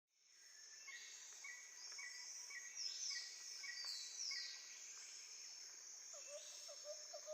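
Nature ambience of birds calling, fading in over a steady high drone: a short chirp repeated about twice a second, a few falling whistled calls in the middle, and from about six seconds in a lower note repeated about three times a second.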